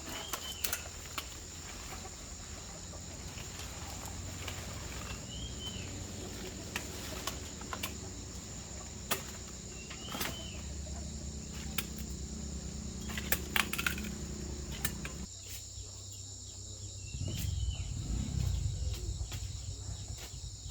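Steady high insect chorus, cricket-like, with scattered sharp clicks and knocks and a short rising-and-falling call repeated every few seconds. A low rumble swells near the end.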